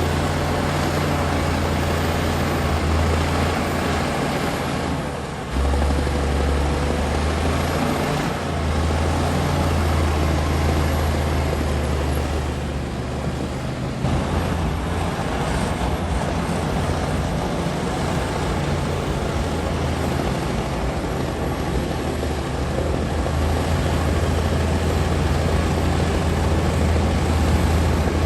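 Komatsu D60P crawler bulldozer's diesel engine running under load with a steady low drone. Its pitch and level shift about five seconds in and again around fourteen seconds as the load changes.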